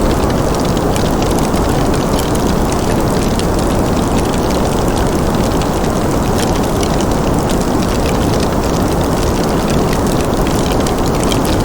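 Wood fire crackling in a fireplace: many small, irregular pops and crackles over a steady low rumbling noise.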